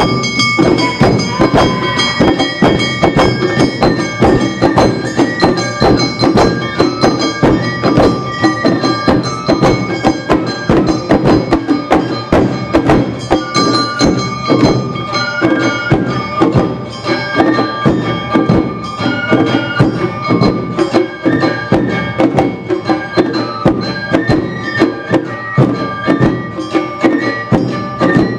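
Live Awa Odori festival music: drums and a struck kane bell beating a quick, driving rhythm, with shinobue flutes and shamisen holding steady high notes over it.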